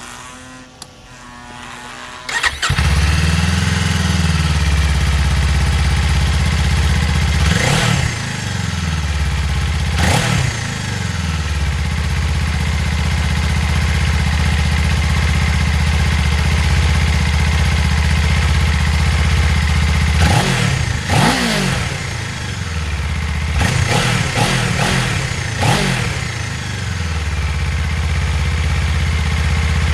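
Kawasaki Ninja 500's parallel-twin engine on its stock muffler, starting up about two and a half seconds in and then idling, with two single revs and later a cluster of quick throttle blips. The stock exhaust gives no crackles or pops as the revs drop.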